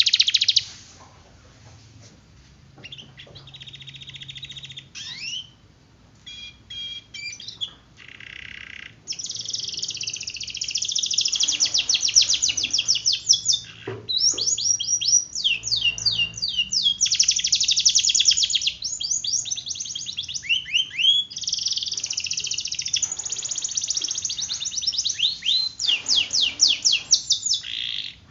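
Domestic canary singing in long, rapid rolls of repeated high notes mixed with quick sweeping notes. The song is sparse and soft at first, then runs near-continuously from about a third of the way in.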